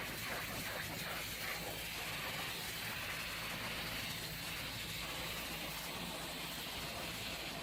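Steady hiss of a pressure washer's water spray, with a faint low hum underneath.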